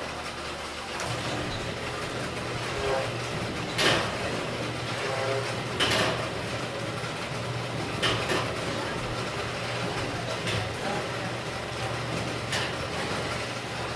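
Automatic feeding machine in a layer house running with a steady low hum that sets in about a second in. A sharp clack comes about every two seconds, five times.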